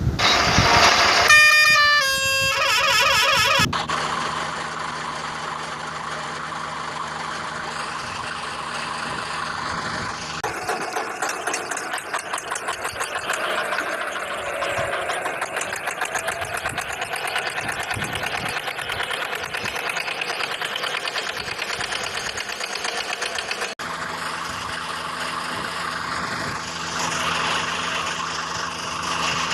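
Vehicle horn tones sounding for the first few seconds, then diesel vehicle engines running steadily with a pulsing beat, changing abruptly twice.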